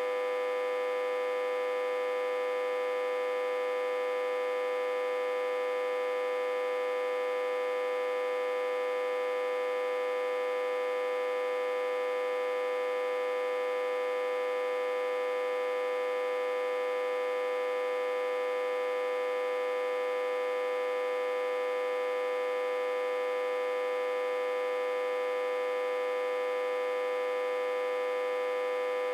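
Autotransformer humming steadily, one constant buzzing pitch with many overtones, while it is back-fed through a step-down transformer at about 60–80 V input.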